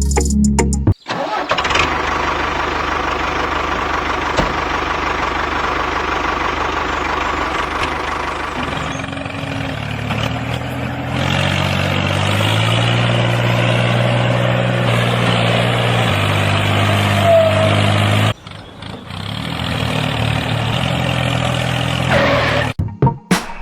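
An engine running steadily, its pitch shifting in steps. It cuts off abruptly about 18 seconds in and resumes a moment later.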